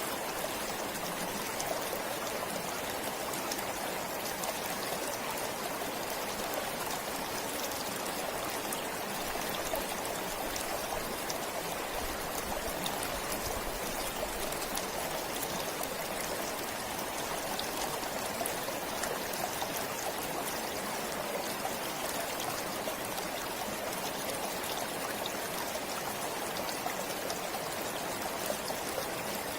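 A forest stream flowing steadily, with a constant babble of running water and small trickles.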